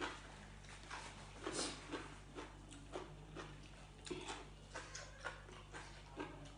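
A person chewing crunchy food with the mouth closed, close to the microphone: soft crisp crunches about every half second, over a faint steady low hum.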